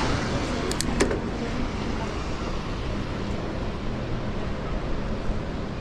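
Steady rush of wind and road noise from riding an e-bike, with a few sharp clicks about a second in.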